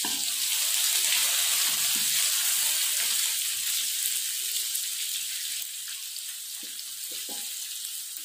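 Spice paste for nasi goreng sizzling as it fries in hot oil in a wok, stirred with a metal ladle. The sizzle eases off somewhat about five and a half seconds in.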